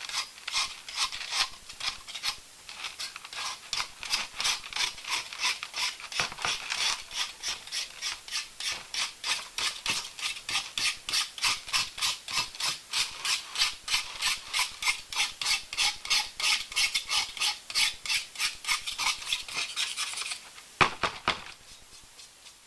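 An X-Acto knife scraping caked-on grass off a metal lawn mower blade in quick repeated strokes, about four a second. The strokes stop about 20 seconds in, and a couple of louder knocks follow.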